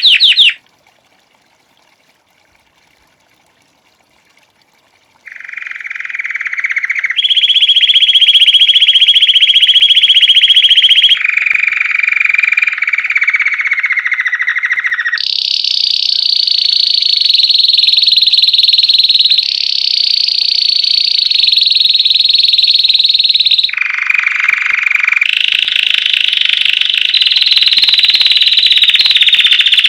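A Belgian canary singing in long rolled trills, each held for one to four seconds before switching to a higher or lower pitch. The song breaks off about half a second in and resumes after a pause of about four and a half seconds.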